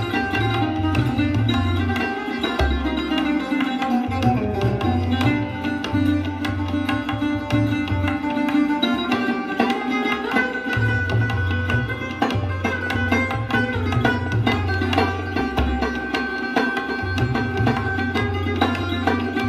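Sarod played in quick plucked runs, with tabla accompaniment whose deep bass-drum strokes recur under the melody.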